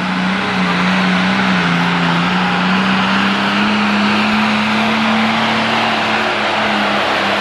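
Super stock pulling tractor's diesel engine running hard at high, nearly constant revs. Its pitch sags slightly near the start and again about two seconds in, then holds steady.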